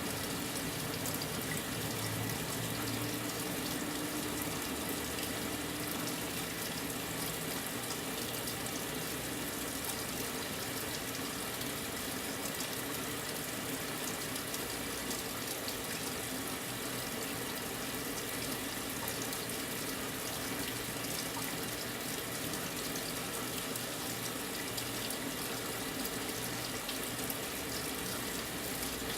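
Brastemp 9 kg top-loading washing machine filling its drum with water: a steady rush of water pouring in, with a faint low hum underneath.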